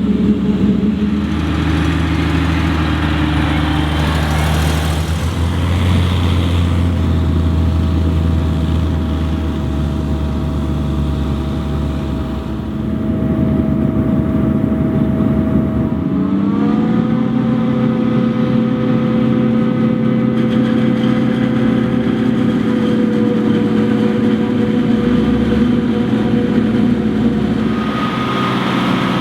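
Large farm diesel engines from a forage harvester and tractors run steadily under load. About halfway through, one engine revs up within a second and then holds a steady higher pitch.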